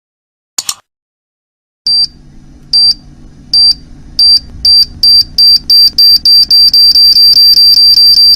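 A single click, then electronic beeping that speeds up steadily, from under one beep a second to an almost continuous beep, over a low hum. It is a time-bomb countdown sound effect.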